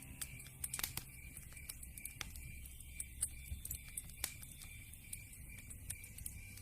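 Wood fire crackling in a fireplace: irregular sharp snaps and pops over a low rumble, with a few louder pops about a second in and around three to four seconds in.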